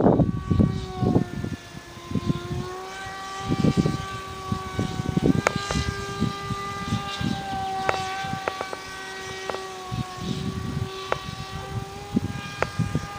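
Propeller of a pusher-propeller airplane running steadily: a whine whose pitch drifts slowly up and down, with several sharp clicks. Wind buffets the microphone in gusts.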